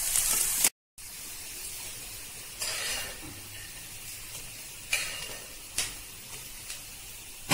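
Chana dal, green chillies and mustard seeds sizzling in hot oil in a kadhai as they are stirred with a spatula; the sizzle cuts off abruptly under a second in. After that comes a quieter, fainter hiss with a few light clicks.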